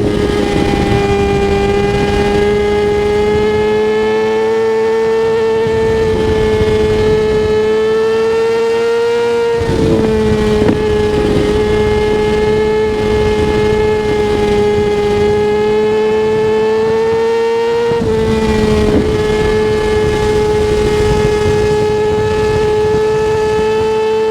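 Kawasaki ZX-6R 636's inline-four engine running hard at high revs under way, its high note climbing slowly. The note dips briefly as the bike shifts gear about ten seconds in and again at about eighteen seconds, then climbs again. Wind rushes underneath.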